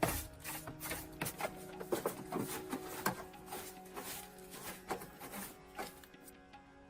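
A busy run of irregular clicks, light knocks and scraping, the sound of hand work with small hard parts, thinning out near the end. Faint music runs underneath.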